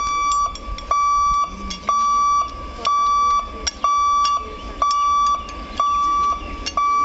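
Level-crossing warning beeper at a railway gate sounding a steady, high electronic beep about once a second, each beep about half a second long: the warning given while the gate is closed for an approaching train.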